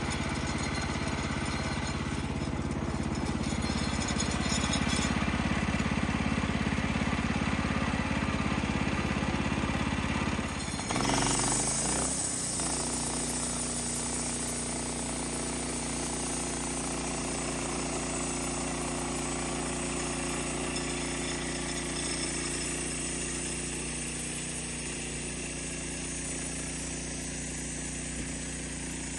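Engine running steadily. About eleven seconds in, its sound shifts with a brief louder surge, then it settles into a steady drone again.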